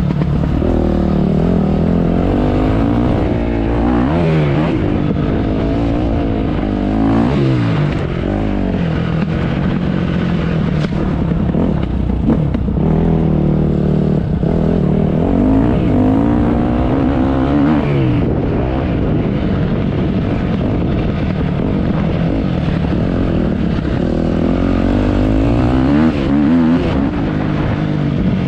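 Motocross bike engine revving hard, its pitch climbing and dropping again and again as the throttle is worked and gears change.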